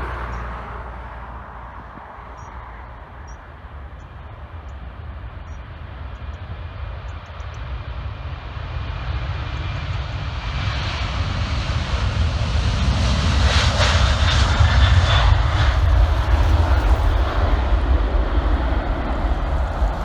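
Airbus A330 twin-engine jetliner taking off, its engine noise a deep rumble with a rushing hiss that grows steadily louder, peaks about two-thirds of the way through, then eases slightly.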